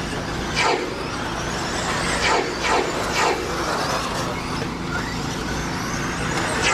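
Electric 1/10-scale RC stadium trucks racing on a dirt track, their motors whining. Several short whines fall in pitch as trucks go by or let off.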